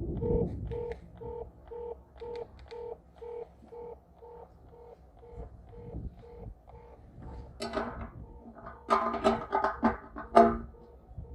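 Electronic beeping in steady pulses, about two beeps a second, of the kind a satellite signal finder gives while a dish is being aimed. From about seven and a half seconds in, louder ringing, clattering sounds come in short bursts over the beeps.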